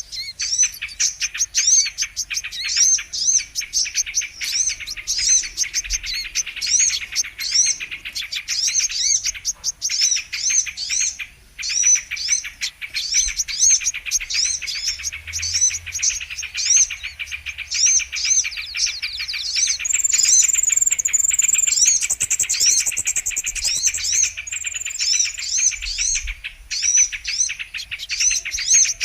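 Brown-throated sunbird (kolibri kelapa) song: a fast, continuous stream of high chirps and twitters, with a higher, more drawn-out trill about two-thirds of the way through. It is a lure recording made to attract this sunbird.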